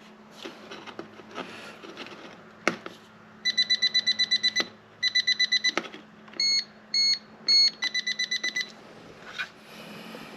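Non-contact voltage tester beeping in fast bursts, with a few longer separate beeps in between, as it is held near the wires: the sign of a live (hot) conductor. A sharp click sounds about three seconds in.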